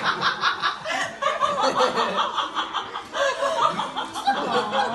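High-pitched laughter: a long unbroken run of quick giggles, several a second.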